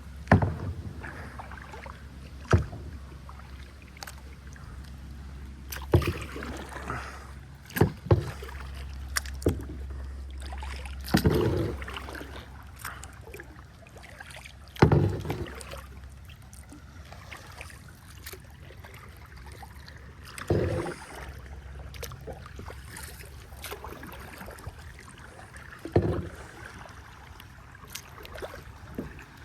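Kayak paddling: separate splashes and knocks of the paddle, irregular and a few seconds apart, over a steady low rumble.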